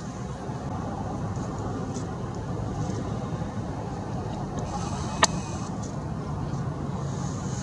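Steady low rumble of distant road traffic, with faint high chirps from small birds and one sharp click about five seconds in.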